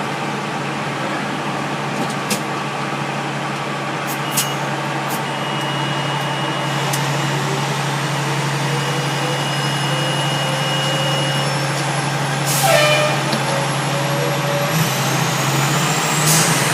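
A Pierce Arrow XT aerial ladder fire truck under way, heard from the cab: a steady engine hum and road noise. About three-quarters of the way through there is a sudden loud hiss of air, typical of the air brakes, and the engine note shifts soon after.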